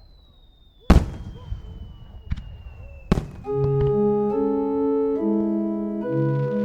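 Two sharp firework bangs, about a second in and about three seconds in, over a thin tone slowly falling in pitch. About halfway through, sustained organ-like keyboard chords begin and carry on.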